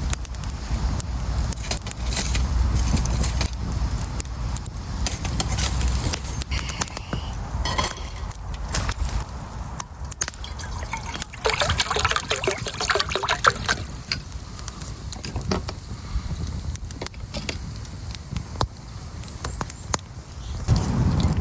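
Liquid sloshing and dripping in a cooking pot over a campfire, with many scattered sharp crackles. The clicking and splashing get denser for a couple of seconds about halfway through.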